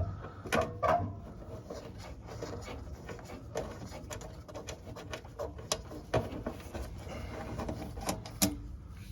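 Scattered metal clicks, taps and scrapes of hand work fitting screws and the gasket plate of a water heater's pilot assembly, with a couple of sharper knocks near the start and near the end.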